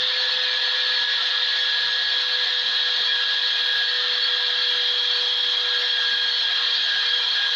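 Electric grinder running steadily on the hatchet's steel: an even, unchanging whine over a hiss.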